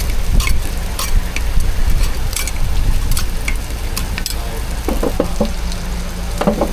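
Egg pancakes frying in oil on a hot griddle: steady sizzling with frequent sharp crackles and pops over a low hum, and a few brief squeaks about five seconds in and again near the end.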